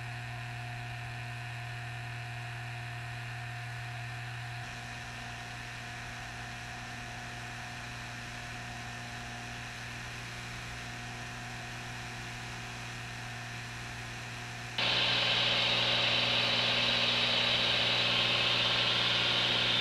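Steady drone and hum of a Cessna 182's cockpit as carried on the headset intercom audio. About fifteen seconds in, a louder hiss cuts in abruptly and holds.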